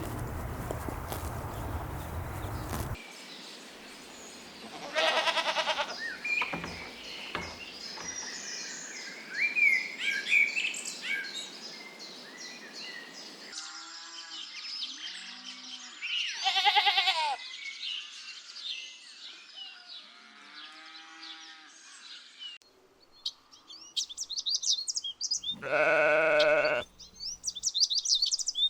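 Sheep bleating: a call about five seconds in, another in the middle, and a longer, loudest bleat near the end, with fainter bleats between. Birds chirp high above them, and a rough noise runs for the first three seconds and then cuts off.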